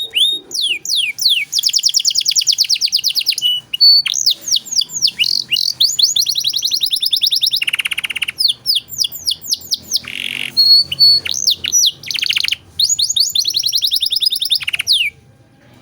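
Domestic canary singing a long, varied song: fast series of down-sweeping notes, rapid even trills and a couple of lower buzzy rolls, ending shortly before the close.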